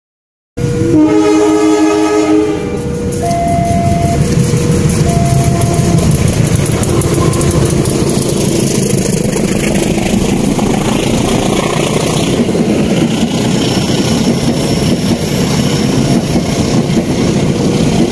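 Passenger train horn sounding a long multi-note blast just after the start, followed by a few shorter toots, then the coaches of an Indonesian passenger train passing close by with a steady, loud rumble and rapid clatter of wheels over the rails.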